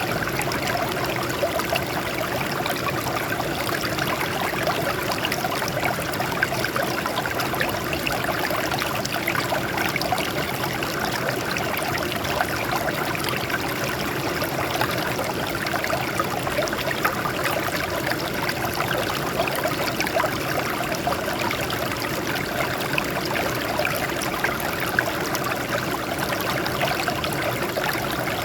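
Water flowing and trickling over rocks in a steady, unbroken stream.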